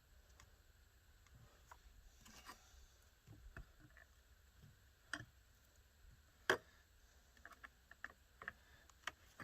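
Faint, scattered clicks and light knocks from hands working plastic chainsaw parts during assembly, with one sharper click about six and a half seconds in.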